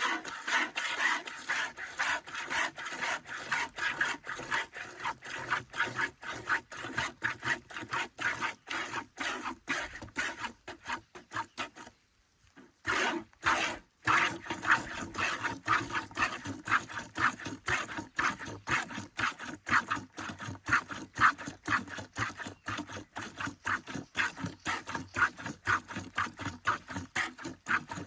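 Cow being milked by hand: streams of milk squirting into a pail in a quick, even rhythm of a few squirts a second, with a short pause about twelve seconds in.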